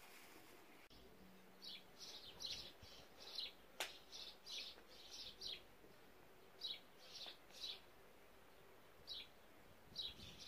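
Faint chirping of small birds: short, high chirps in loose clusters of three to five, repeated every second or two. A single sharp click about four seconds in is the loudest thing.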